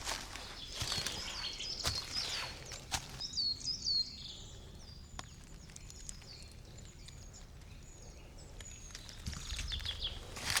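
Songbirds singing, with short, repeated, down-slurred whistled notes, thick for the first few seconds and then sparser and fainter. Footsteps on a forest path are heard at first, stop after about three seconds, and start again near the end.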